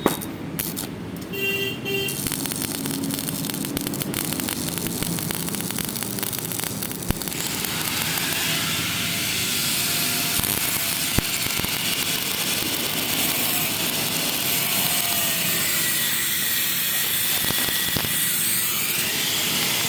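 Electric arc welding: the arc crackles unevenly at first, then settles about seven seconds in into a steady, sizzling hiss.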